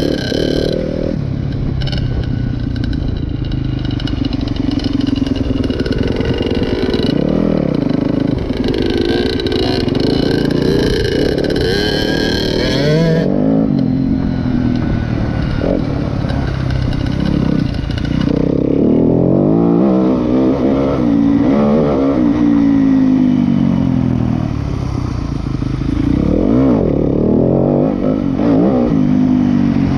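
Dirt bike engine running under riding load, revving up and down over and over as the throttle opens and closes, its pitch rising and falling with each change. The higher-pitched part of the sound drops away about halfway through.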